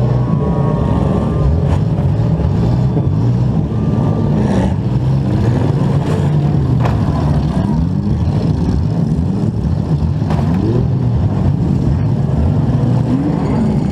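Demolition derby compact car's engine running hard and revving up and down, picked up on the car itself, with other derby cars' engines around it. Several sharp crashes of car-to-car impacts cut through it, about two, four and a half, seven and ten seconds in.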